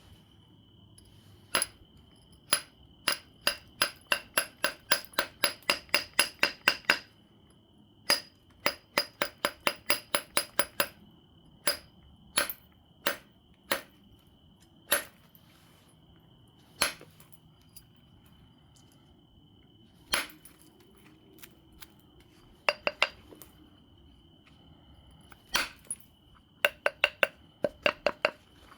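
Obsidian biface being struck with a knapping tool, sharp glassy taps with a short ring. They come in quick runs of about three a second, then single strikes, and a short burst near the end.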